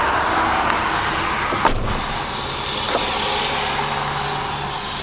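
2008 Isuzu NPR's 6.0-litre gasoline V8 running at idle, heard from inside the cab, with the cab door shut with a single clunk about a second and a half in.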